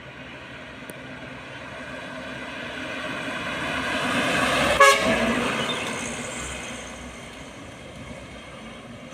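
A heavy truck passes close by, its engine and road noise growing louder and then fading. A short horn toot sounds just as it goes past, about five seconds in.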